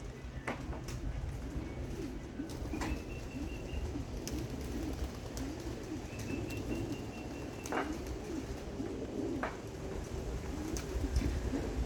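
Several domestic flight pigeons cooing over one another without a break, with scattered sharp clicks among them.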